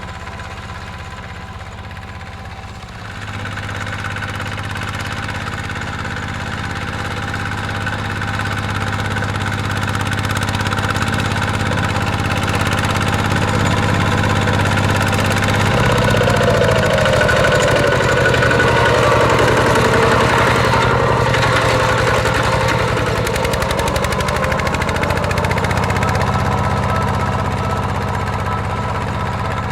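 Mini tractor engine running steadily while plowing. It gets louder a few seconds in. Just past the middle its speed sags for several seconds, as if under heavier load, then picks back up.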